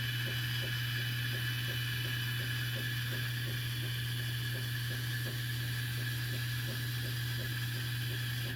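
Yaesu G-800DXA antenna rotator motor running steadily with a continuous hum, its gear train giving off an even, regular ticking as it turns the rotator toward the end stop.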